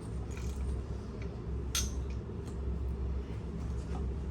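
Metal parts and tools clinking now and then during hand assembly of a water pump and its motor, with one sharper clink a little under two seconds in, over a steady low hum.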